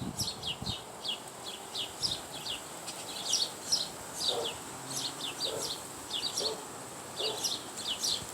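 Small backyard birds chirping continuously, many quick falling chirps overlapping, with a few lower short notes in the second half.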